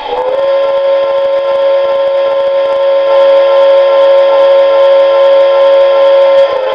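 Lionel 390E standard-gauge tinplate steam locomotive's whistle, blown in one long steady blast of several blended tones lasting about six and a half seconds.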